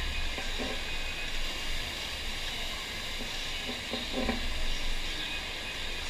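Steady rushing hiss of water pumped over a FlowRider surf machine's sheet wave, with a low rumble underneath. Faint distant voices come through briefly about half a second in and again around four seconds in.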